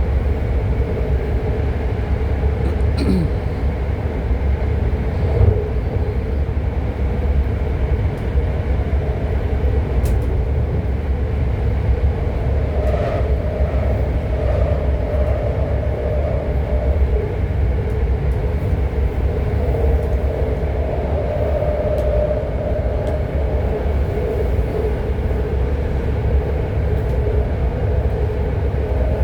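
A BART train car running between stations, heard from inside: a steady low rumble of wheels on rail with a droning hum, a second slightly higher tone joining about halfway through.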